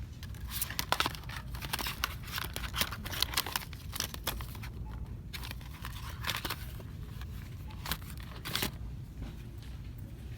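Crinkling and rustling of handled packaging, a dense run of crackly clicks that dies away near the end, over a low steady hum.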